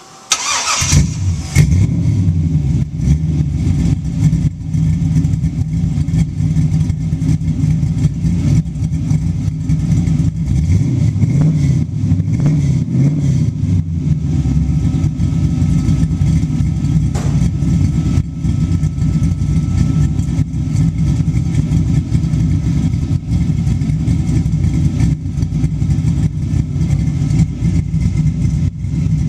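Carbureted 6.0-litre LS-family V8 (LQ9) with a Texas Speed Torquer 2 cam cranks briefly and fires within about a second, then runs loud at idle. It is heard from behind, out of 1¾-inch headers, a 3-inch X-pipe and Flowmaster Delta Force race mufflers.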